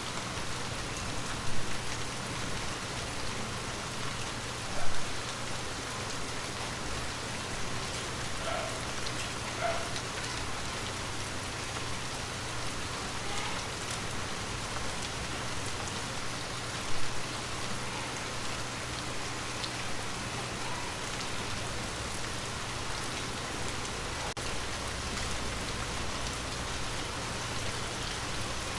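Steady rain falling on window glass, with three louder drops or taps standing out over the even patter. A faint low hum runs underneath.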